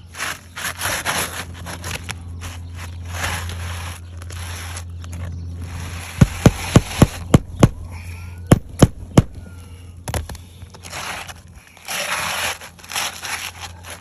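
Nails being driven to fasten a replacement asphalt roof shingle: two quick runs of sharp strikes, six then three, with the shingles rustling and scraping as they are handled.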